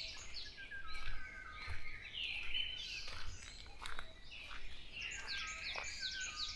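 Dawn chorus of many songbirds singing and calling at once, with dense overlapping quick high notes and a few sharp ticks among them.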